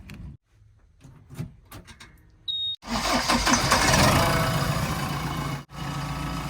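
A few faint clicks, then, nearly three seconds in, a short high beep and a heavy machine's diesel engine starting up and running loudly.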